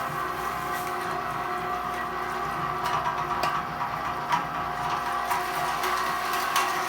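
Electric meat grinder motor running steadily with a whine as it grinds raw whole chicken with the bones in. A few sharp cracks sound around the middle as bone goes through.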